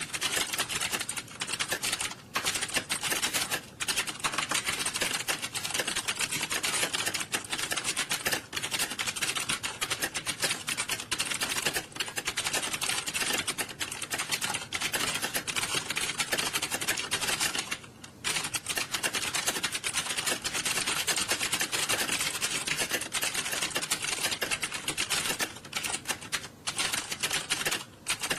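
Many computer keyboards being typed on fast at the same time, a dense, unbroken clatter of keystrokes with a few brief lulls, the longest about 18 seconds in: a timed typing test in progress.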